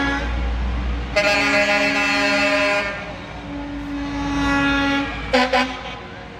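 Truck horns honking as trucks pass: one long loud blast about a second in, a lower held horn tone after it, then two short toots near the end, over the low rumble of the trucks' engines.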